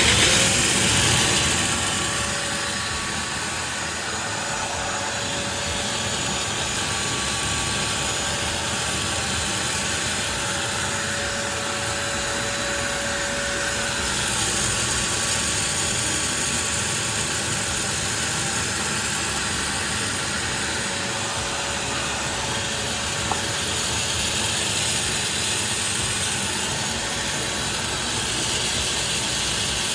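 Wet vacuum cleaner switched on, starting abruptly and loudest for the first couple of seconds, then running steadily with an even rushing noise as it draws rinse water from the air conditioner.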